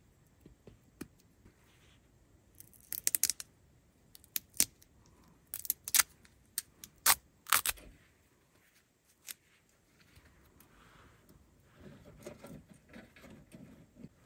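Sharp clicks and clinks of small hard objects being handled: a quick run of four about three seconds in, then single ones over the next few seconds. Soft rustling follows near the end.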